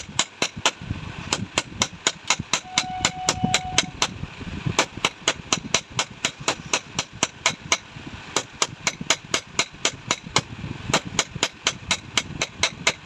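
Rapid, even hammer strikes on metal, about four a second, while working on a motorcycle rear shock absorber.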